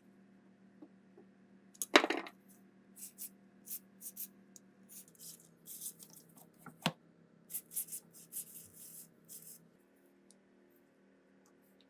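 Metal parts of an MG3 machine gun being handled in a rebuild: a loud metallic clank about two seconds in, then a run of clicking and scraping, with one sharp click near the middle.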